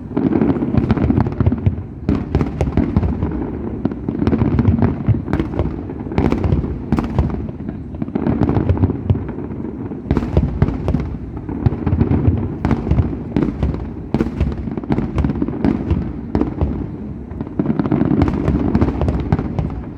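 Aerial fireworks going off in a dense barrage: rapid overlapping bangs and crackles over a continuous low rumble, with no pause.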